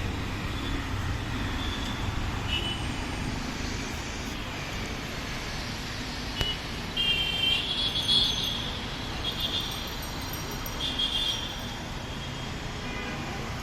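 Steady outdoor ambience of light rain and passing road traffic, with short bird chirps several times, the busiest cluster about halfway through.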